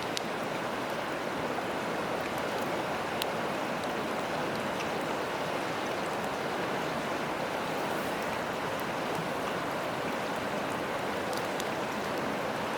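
Steady rushing of a river, with a few faint, sharp crackles from a wood campfire.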